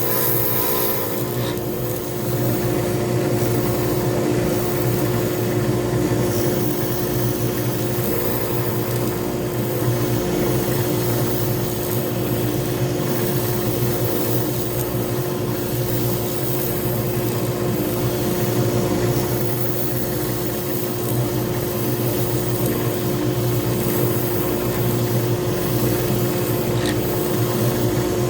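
Pen-turning lathe running steadily with a constant hum, and a rasping scrape of work against the spinning pen blank over it.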